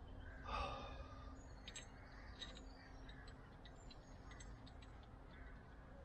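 A short breath or sigh about half a second in, then scattered faint light clicks and clinks over a low steady hum.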